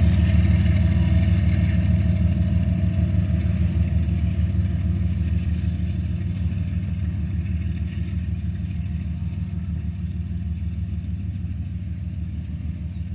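GE ES44AH diesel locomotive with its V12 engine running, working as an end-of-train helper pushing a freight train, a steady low engine drone that slowly fades as the locomotive moves away.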